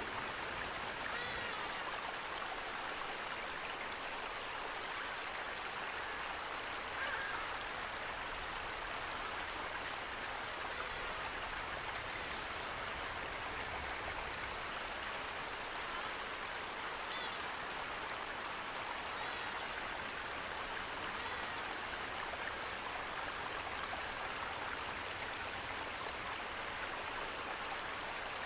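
Steady rush of running water, like a stream or small waterfall, with a few faint bird calls here and there.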